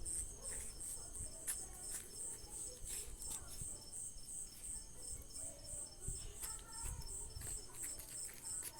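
A cricket chirping steadily, an even high-pitched pulse about two to three times a second, with a few faint low knocks about six to seven seconds in.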